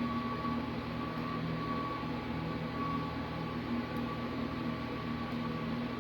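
Steady machine hum and hiss with a constant high whine and low droning tones.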